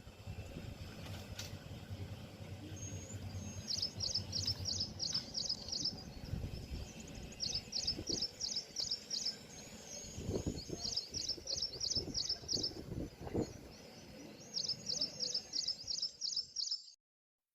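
A bird singing outdoors: four bursts of quick, high repeated notes, each a few seconds apart, over a low background rumble of ambient noise. It cuts off suddenly near the end.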